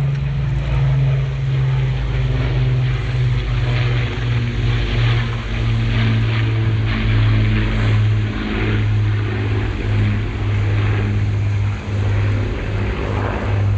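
Battle of Britain Memorial Flight aircraft flying past: the steady drone of an Avro Lancaster's four Rolls-Royce Merlin piston engines together with one Rolls-Royce Griffon engine, dropping a little in pitch partway through as they pass.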